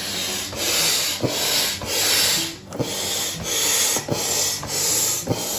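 Manual air pump inflating an inflatable kayak's air chamber: a rhythmic run of hissing whooshes, about one and a half strokes a second, with light knocks between some strokes.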